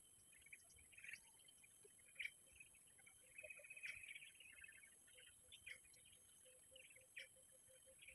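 Faint scattered chirps of small wild birds, with a short trill about three and a half seconds in, over a steady high-pitched insect drone. A soft run of evenly spaced low pulses, about four a second, starts about five seconds in.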